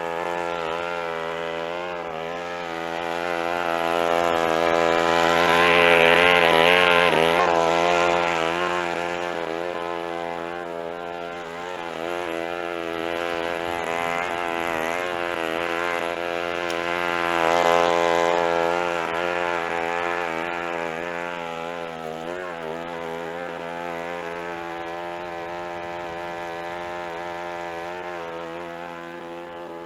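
Small petrol engine of a lawn mower running steadily under load while mowing, growing louder about a fifth of the way in and again past the middle as it comes close, then easing off.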